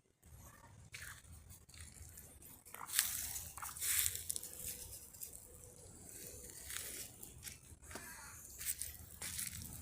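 An animal feeding, with irregular crunching and tearing sounds, loudest about three to four seconds in.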